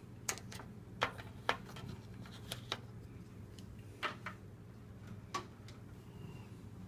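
Scattered light clicks and taps from things being handled and set down, about a dozen in all, over a faint steady low hum.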